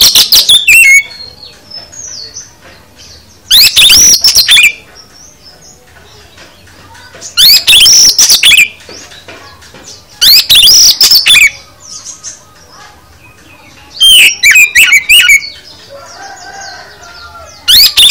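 Oriental magpie-robin (kacer) singing: loud, rapid bursts of high, sliding notes about a second long, coming every three to four seconds, with fainter calls between them.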